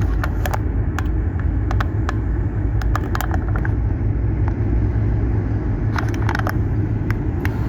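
A car driving, heard from inside the cabin: a steady low road-and-engine rumble, with scattered light clicks at irregular moments.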